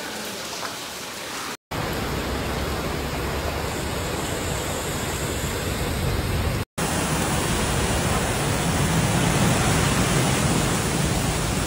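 Heavy rain and running water: a dense, steady rushing hiss. It is broken by two abrupt cuts, about one and a half and six and a half seconds in, and grows louder and fuller after each.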